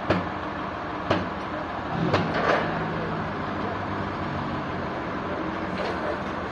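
Sawmill machinery running steadily, with sharp clunks about a second apart in the first three seconds, a double clunk near the middle, and a brief low hum after it.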